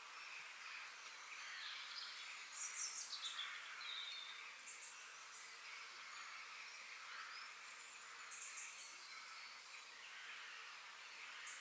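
Faint natural outdoor ambience: a steady high hiss of background insects and birdsong, with short high bird chirps breaking through, loudest in a quick flurry with a falling note about three seconds in and again about eight and a half seconds in.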